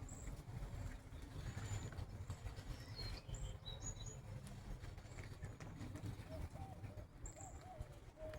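Small birds at a feeder chirping in short, high notes scattered through, with a few lower wavering whistled notes near the end, over a steady low rumble.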